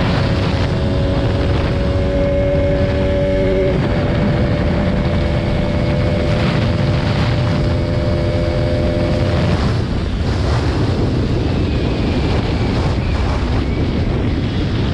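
Motorcycle riding at speed, its engine running under heavy wind buffeting on the microphone.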